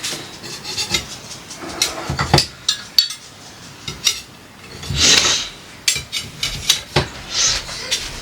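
Dishes and cutlery being washed by hand: irregular clinks and knocks of plates and silverware, with two short hissy spells about five and seven and a half seconds in.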